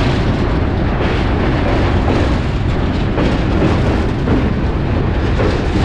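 Loud, steady rumble and rush of a moving passenger train, a dense low noise of wheels on rail and air with no clear rhythm.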